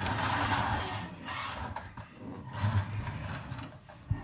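Toy trucks rubbing and scraping in rough play, with low growling noises and a sharp knock near the end.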